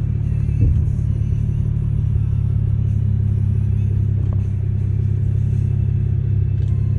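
A motorcycle engine running at a steady, unchanging pitch, a constant low drone.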